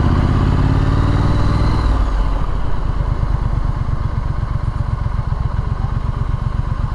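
Triumph Street Scrambler's 900 cc parallel-twin engine pulling with its revs rising slightly, then about two seconds in the throttle closes and it runs on at low revs with a slow, even beat.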